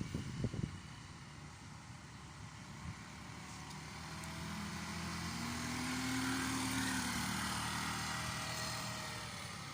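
Motorcycle engine passing by: it grows louder to a peak about six or seven seconds in, then fades. A few low thumps near the start.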